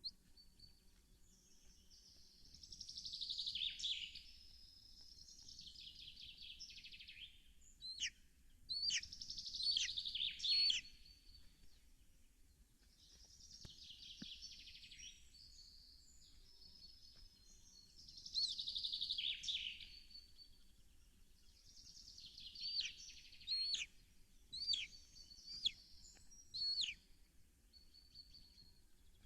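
Birds singing in high-pitched phrases of a second or two, repeated every few seconds, with short sharp chirps in between.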